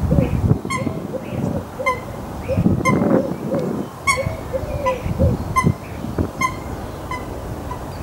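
Birds calling: a short, sharp call repeats about once a second over a fast run of low, arching notes, with an uneven low rumble underneath.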